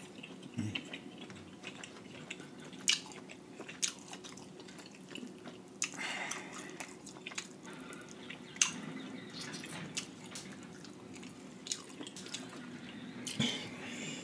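Close-up wet chewing and lip-smacking of a person eating seafood boil soaked in butter sauce, with irregular sharp, wet clicks.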